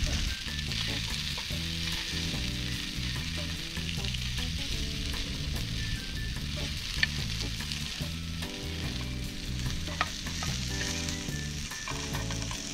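Thin beef sausages and onion sizzling steadily in oil in a small frying pan on a portable gas cooker. There are a couple of sharp clicks about seven and ten seconds in.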